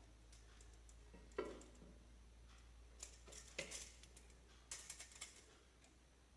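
Quiet, scattered light clicks and metallic taps from small tools and metal parts being handled at a workbench, with a single knock about a second and a half in and two short flurries of clicks later on.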